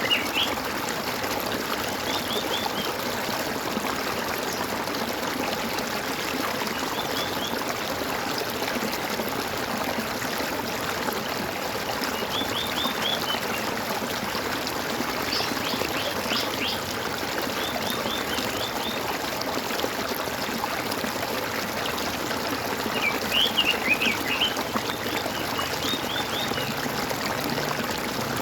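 Gurgling water running steadily, with small birds chirping in short clusters of quick high notes every few seconds; the loudest chirping comes about 23 seconds in.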